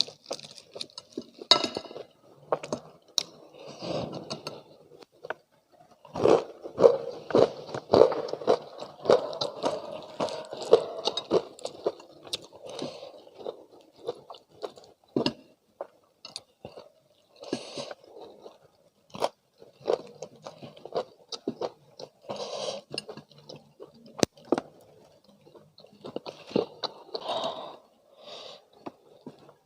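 Close-miked chewing and crunching of crispy spicy fried chicken, in irregular mouthfuls that are busiest for several seconds in the first half.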